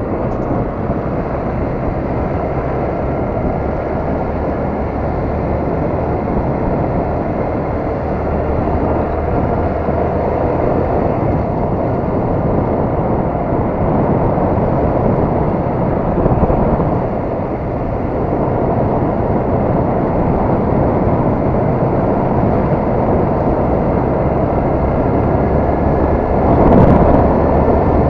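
Honda MSX 125 motorcycle being ridden: its small single-cylinder engine runs under a steady rush of wind on the microphone, with a brief swell near the end.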